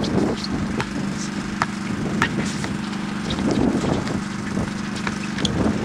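Basketball game on a hardwood court: irregular sharp knocks and short squeaks over a steady low hum.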